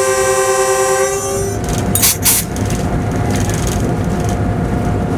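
Locomotive horn sounding one chord, cutting off about a second and a half in. Two sharp knocks follow, then the steady running noise of the locomotive cab.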